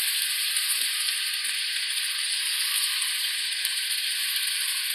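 Raw marinated beef strips and sliced onions sizzling in hot oil in a stainless steel wok, a steady frying hiss.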